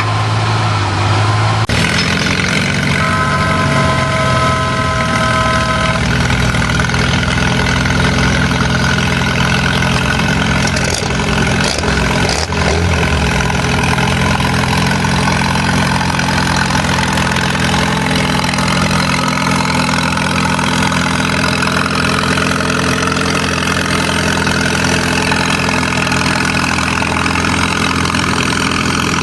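Antique tractor engine running loudly and steadily. A steady high tone of a few pitches sounds for about three seconds near the start.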